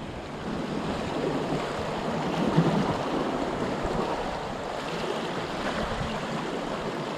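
Sea water washing and surging against the rocks below, a steady rushing that swells a little a couple of seconds in.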